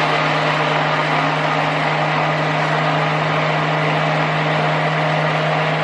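Electric stick blender running steadily for about six seconds, mixing colourant into the pink portion of the soap batter, then switched off near the end.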